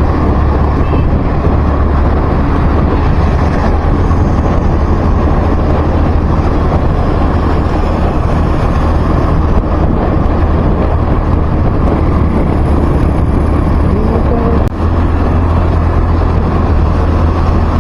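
Steady road and wind noise from a moving vehicle in traffic, heaviest in the low end, with a brief dip about three-quarters of the way through.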